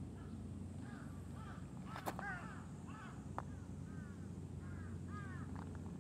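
Bird calling outdoors: a run of short, arched calls, about two a second, over a steady low rumble, with a sharp click about two seconds in.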